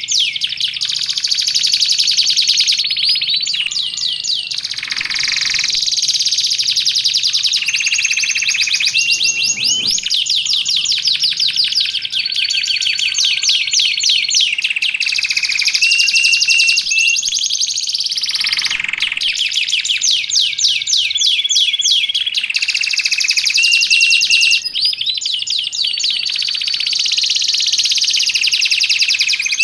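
Domestic canary singing without pause: long, fast rolling trills and chattering runs, with a few short steady whistled notes held between phrases.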